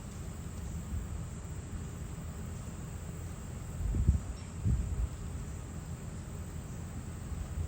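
Steady, high-pitched chorus of crickets over a continuous low rumble, which swells twice about four seconds in.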